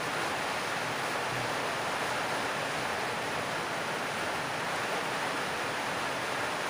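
Heavy rain on a corrugated metal roof: a steady, even hiss that never lets up.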